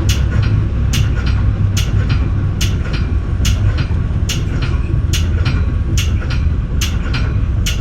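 Metra bi-level commuter car rolling along the track: a steady low rumble with a sharp click a little under once a second.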